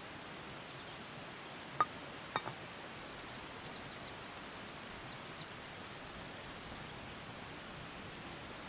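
Steady outdoor background hiss with two sharp clinks about half a second apart, a couple of seconds in, followed by a few faint high chirps.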